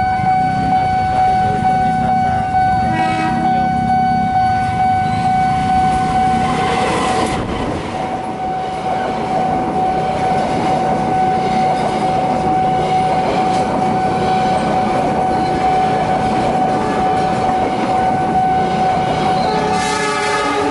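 A train passes a level crossing, its wheels rumbling and clattering, while the crossing's warning siren holds one steady tone throughout. The train horn sounds briefly about three seconds in and again near the end.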